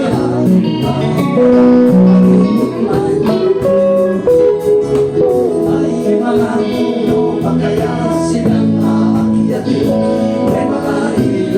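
Folk band playing an instrumental passage: strummed acoustic guitar in a steady rhythm under a sustained melody line.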